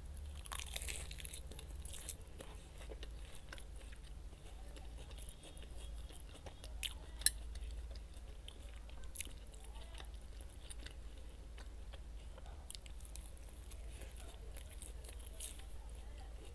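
Close-up chewing and crunching of crisp iceberg lettuce, with a cluster of crackling bites in the first two seconds and scattered crunches after. A single sharp click about seven seconds in is the loudest sound, over a steady low hum.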